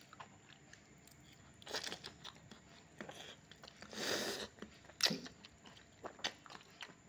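Close-up chewing and biting on a mouthful of noodles: soft wet mouth clicks and crunches, with sharper clicks near two and five seconds in and a longer noisy burst about four seconds in.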